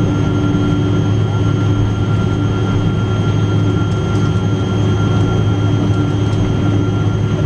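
Steady cabin noise inside a Boeing 777-200 with its engines running: a loud even drone with a low hum and a few constant higher whining tones.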